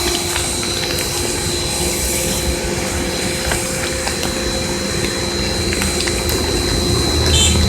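Motorcycle running steadily: a low rumble with a constant high whine over it.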